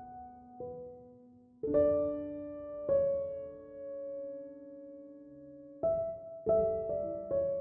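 Slow, soft solo piano music: single notes and chords struck every second or so and left to ring out.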